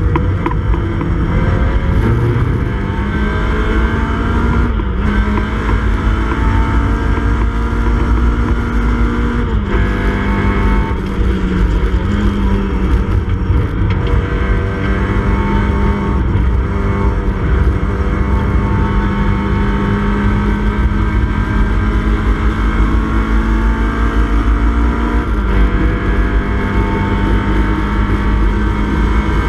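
Mini Cooper S BMC A-series four-cylinder engine racing hard, heard from inside the cabin. It holds high revs, and the pitch drops sharply a few times and then climbs again.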